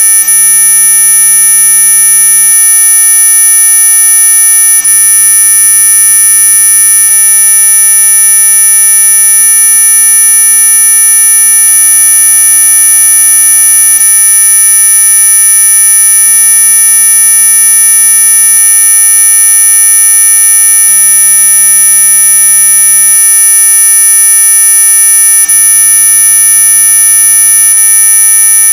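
Synthesized anti-mosquito repellent sound: a loud, steady electronic buzz made of many mid and high tones sounding together, held unchanging throughout.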